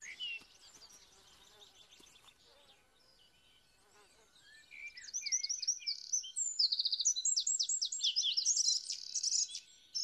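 Small birds chirping and twittering in quick, high calls and short trills, starting about halfway through after a nearly silent first half.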